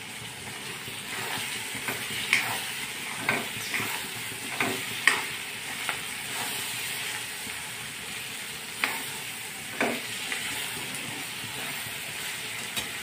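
Sweet corn, peas and tomato sizzling steadily in oil in a steel pan as they are stirred, with a steel spoon clinking against the pan several times.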